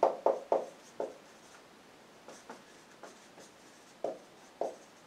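Hand writing: a pen or marker making short strokes, several quick ones at the start, a few faint ones in the middle, then two clearer ones near the end.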